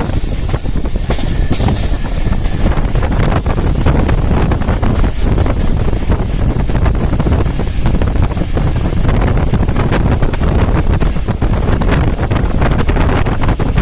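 A passenger train running at speed, with steady track noise and frequent rattling clicks from the wheels and carriage. Wind rushing in at the open window buffets the microphone.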